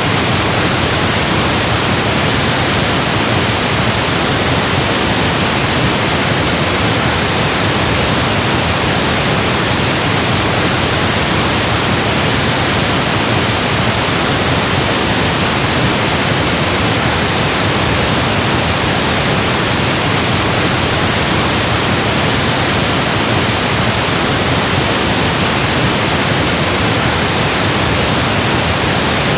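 Steady, unchanging pink noise: an even hiss spread across all pitches, electronically generated.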